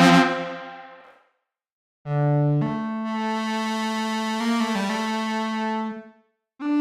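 Brainworx bx_oberhausen software synthesizer playing a preset patch: a bright ringing chord dies away within the first second, then after a short gap a held bright note sounds for about four seconds, its low note stepping up in pitch half a second in and shifting again near the middle, before it fades out; a new note starts right at the end.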